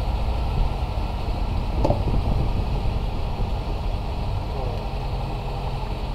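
Warm car engine idling steadily, with a short click about two seconds in.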